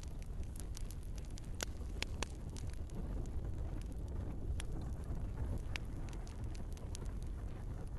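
Wood fire in a fireplace crackling: irregular sharp pops and snaps, a few louder ones, over a steady low rumble of the burning logs.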